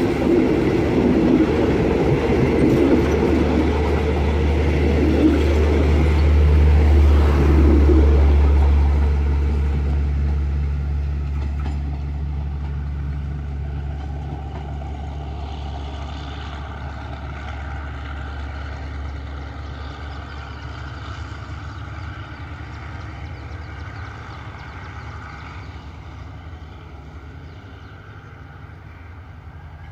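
Passenger train rolling past on the rails, wheel-and-rail noise loud for the first several seconds with a low steady drone as the rear of the train goes by. The train then draws away and the sound fades steadily.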